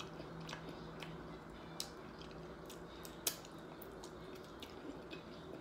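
Faint close-up chewing of a soft taco, with scattered small mouth clicks and wet squishes; the sharpest click comes about three seconds in.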